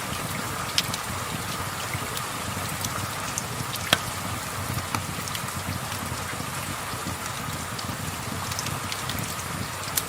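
Steady rain falling, with a few sharp crackles from a wood fire, the loudest about four seconds in.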